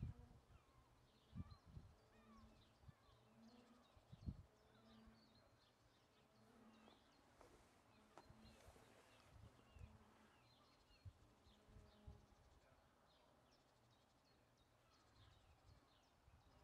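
Very faint songbirds chirping in the background, with a few low thumps, the loudest near the start and about four seconds in.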